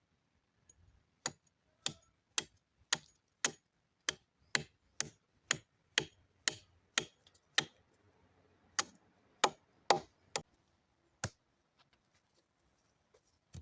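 Wood being struck over and over with a tool, sharp knocks about two a second, with a short break a little past the middle and a last single knock near the end.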